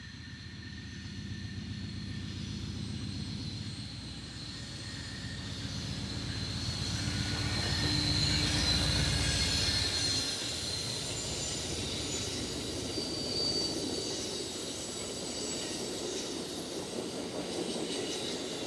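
Amtrak passenger train passing close by on the track: a low rumble grows to its loudest about halfway through as the locomotive goes by, then the cars roll past with steady wheel-on-rail noise and a thin high wheel squeal that comes and goes.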